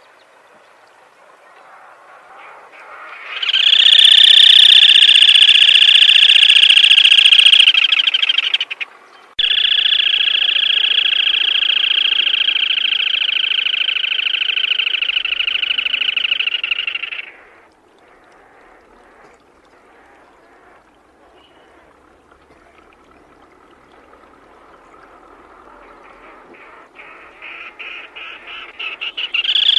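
Black-tailed crake giving long, loud, rapid trills. Two long trills run about five and eight seconds, and a third builds up near the end.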